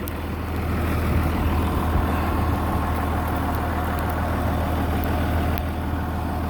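Farm tractor engine running steadily, picking up a little about a second in as the tractor is worked.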